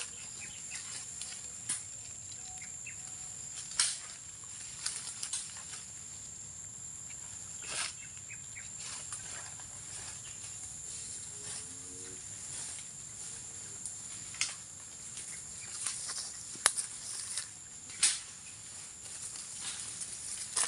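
A steady high-pitched insect drone, with scattered rustles and sharp snaps of dry leaves and twigs as a person moves through the undergrowth.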